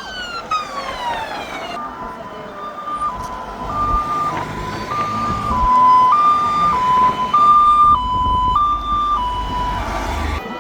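Fire engine siren: a wail winding down in pitch, then switching to a two-tone hi-lo pattern that alternates about every half second before cutting off near the end, over a low vehicle rumble.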